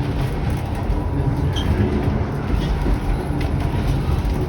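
Kuranda Scenic Railway train running along the track: a steady low rumble of the moving carriage.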